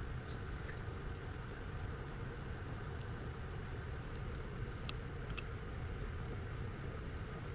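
Steady low background hum with a few faint, light clicks about three seconds in and twice around five seconds in.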